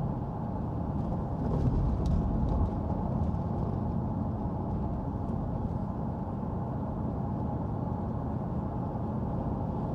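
Jaguar XK8 V8 engine and exhaust droning steadily with tyre and road noise, heard inside the cabin while cruising at about 50 mph in sport mode, just after the automatic gearbox has changed down. It is a little louder for the first couple of seconds, then holds steady.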